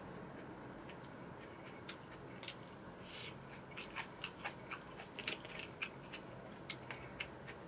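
Close-miked chewing of food: soft wet mouth clicks and smacks, sparse at first and coming several a second in the second half.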